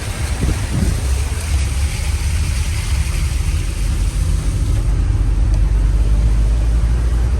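A car driving on a wet, flooded road: a steady low rumble of engine and tyres, growing a little louder about halfway through.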